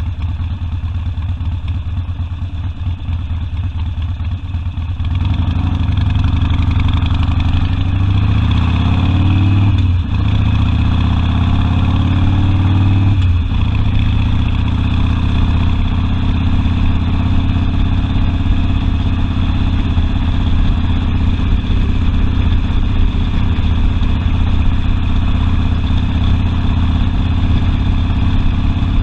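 Harley-Davidson Sportster V-twin engine running low for about five seconds, then pulling away under throttle: its pitch climbs, drops sharply with an upshift about ten seconds in, climbs again, and drops with a second shift a few seconds later, then holds steady at cruising speed.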